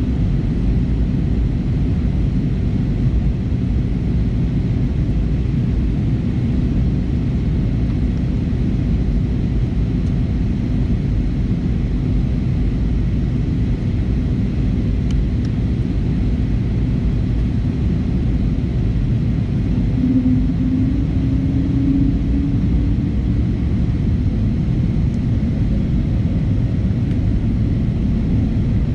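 Steady cabin rumble of an Airbus A320neo in flight, with its Pratt & Whitney geared turbofan engines and airflow heard from inside the cabin. A low hum in the rumble swells and rises slightly for a couple of seconds about two thirds of the way through.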